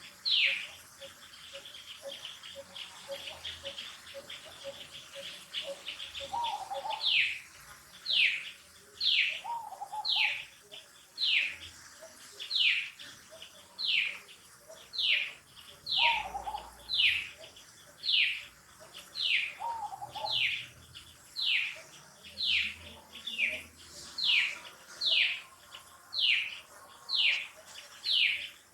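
A bird repeating a short, high call that falls in pitch, about once a second, loudest from about seven seconds in. A fainter high buzzing fills the first several seconds, and a few lower calls come in between.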